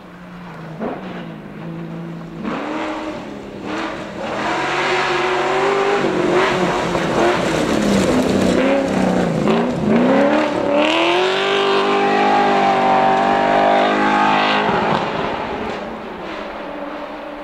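Rally car engine revving hard, its pitch rising and dipping again and again with gear changes and lifts off the throttle as the car comes closer. It is loudest with one long climbing run of revs from about ten seconds in, then drops in pitch and fades as the car moves away.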